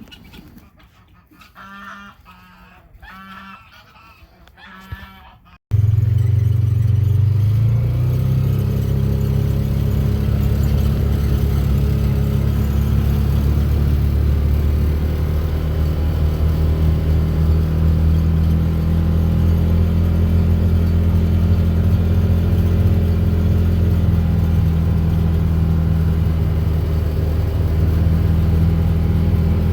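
Geese honking four times, then an abrupt cut to an engine running steadily with a loud low hum.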